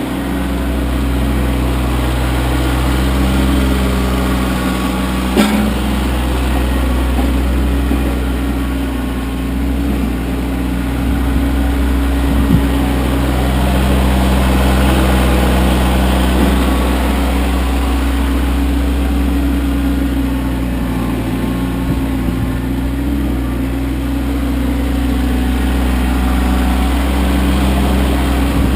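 Kioti CK25 compact tractor's three-cylinder diesel engine running steadily under a light, even load, with one sharp knock about five seconds in.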